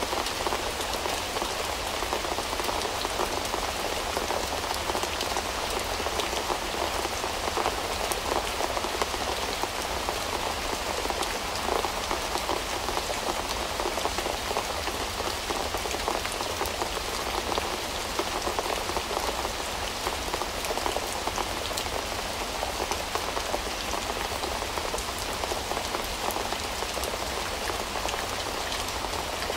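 Steady rain falling: a dense, even hiss of many drops, with small individual drop ticks, unchanging throughout.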